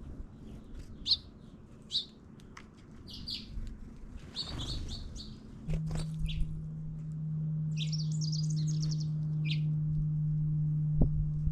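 Small songbirds chirping in short, high calls, with a quick rapid trill about three-quarters of the way through. A steady low hum comes in about halfway and keeps going.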